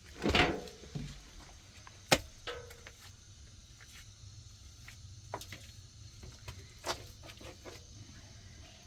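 A few knocks from objects being handled: a loud dull thump just after the start, a sharp knock about two seconds in, then fainter clicks and taps.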